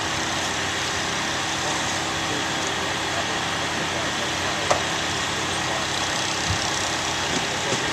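Steady outdoor noise of vehicle engines idling, with a faint click about five seconds in.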